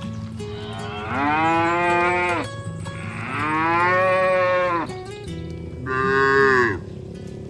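Cattle mooing: three long moos, each rising and then falling in pitch, the second the longest and the third shorter and near the end.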